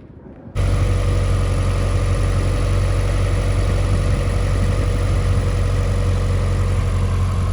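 Toyota BEAMS 3S-GE four-cylinder engine in a 1974 Datsun 620 pickup, idling steadily. The sound comes in suddenly about half a second in, with no cranking heard.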